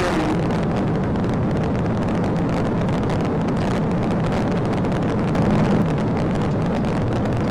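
Police patrol car driving fast: steady road, tyre and wind noise with the engine running underneath, picked up inside the car.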